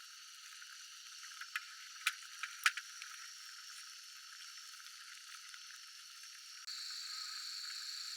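Steady chorus of insects and frogs calling, with a few sharp clicks about two seconds in. Near the end it cuts suddenly to a louder, steadier insect trill.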